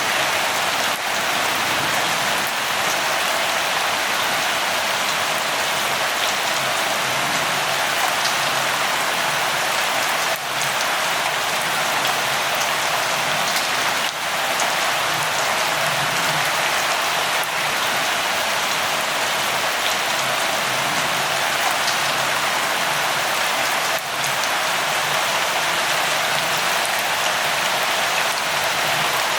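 Steady light rain falling: an even hiss with faint scattered drop ticks.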